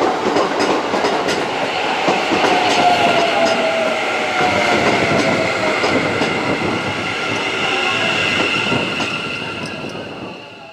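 Electric train running past on the rails: wheels clattering over the track with a steady high motor whine and a lower tone that falls in pitch, fading near the end before it cuts off.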